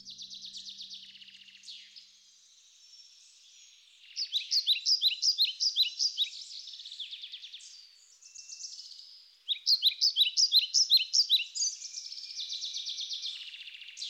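Songbirds singing: rapid, repeated chirps and trills, loudest in two bursts, one about four seconds in and another a little past the middle.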